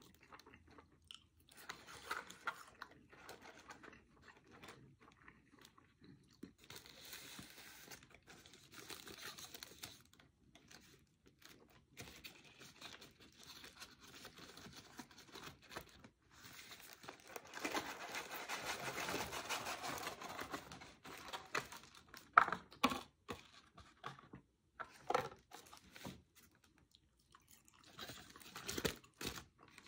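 Close-miked eating sounds: chewing and crunching fast-food french fries, with the foil-paper burger wrapper being handled and rustled, longest a little past the middle, and a few sharp crackles soon after.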